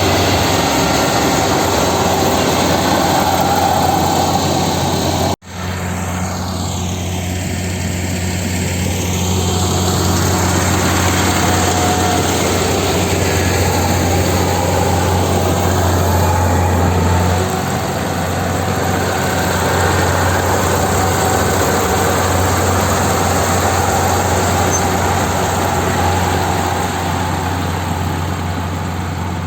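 Rice harvesting machine's engine running steadily under load, with a constant low hum and a wide mechanical noise. The sound cuts out for an instant about five seconds in and then resumes.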